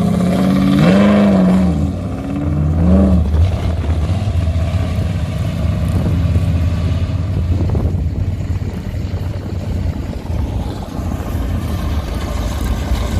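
A car engine revs twice in quick succession as the car pulls away, each rev rising and falling in pitch. A steady low engine rumble follows.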